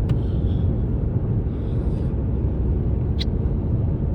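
Steady low road and engine rumble of a car driving on a highway, heard from inside the cabin, with one short click about three seconds in.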